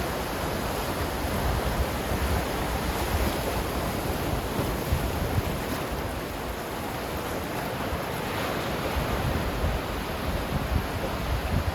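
Ocean surf washing in steadily, a continuous rush of breaking waves that swells and eases gently, with some low wind rumble on the microphone.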